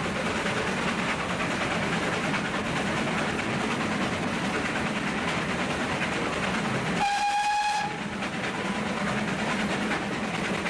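Steam-hauled heritage passenger train running with a steady rumble of wheels and carriages. About seven seconds in, the train's whistle sounds once, a single steady note for about a second.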